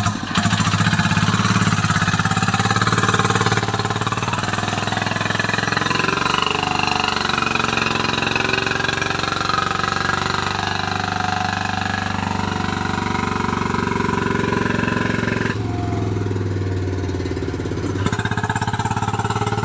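Vehicle engine running steadily under load, a deep, even drone that changes in tone about fifteen and a half seconds in.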